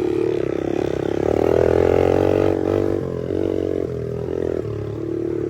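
Pit bike engines revving as the bikes race round the dirt track, the pitch climbing and dropping several times with throttle and gear changes.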